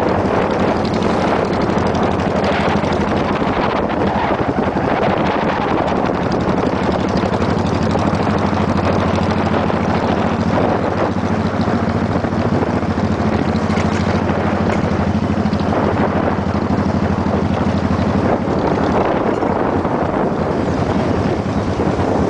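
Motorcycle engine running at a steady cruise, a constant low hum, under heavy wind buffeting on the microphone.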